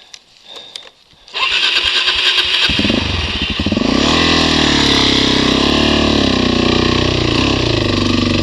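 A motorcycle engine being started: the starter cranks for about a second, then the engine catches and runs, its pitch rising and wavering with the throttle.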